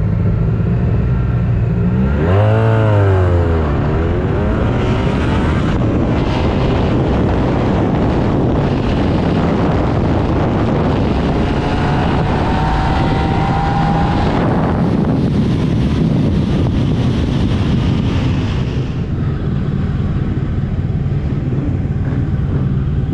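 Motorcycle engine idling, revved once about two seconds in with the pitch rising and falling quickly, then a long stretch of loud running with a faint rising whine, settling back to a steady idle near the end.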